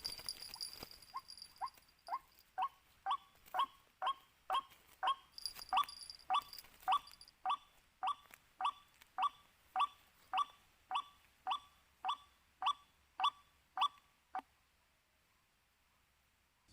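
White-breasted waterhen repeating its "kwak" call, short falling notes about twice a second, growing louder early on and stopping abruptly near the end.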